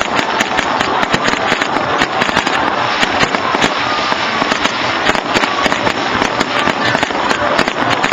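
Fireworks going off in a dense, continuous barrage of sharp crackling pops, many each second.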